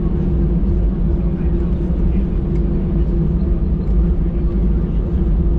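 Cabin noise of an Airbus A319 taxiing after landing: a steady low rumble with a steady hum.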